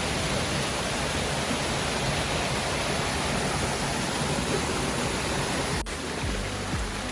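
Waterfall rushing steadily. About six seconds in it breaks off abruptly and background music with a low, pulsing bass takes over.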